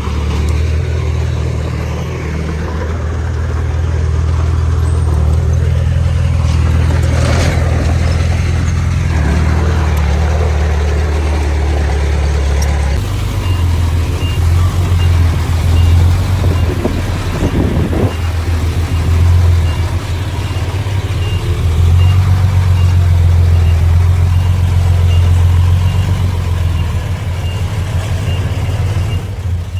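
Heavy diesel engines of earthmoving machinery running steadily under load, shifting in pitch partway through. A faint, evenly repeating reversing-alarm beep, about two a second, starts about halfway in.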